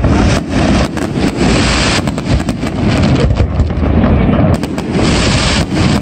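Aerial fireworks display going off in quick succession: many overlapping bangs over a continuous low rumble, with stretches of hiss between them.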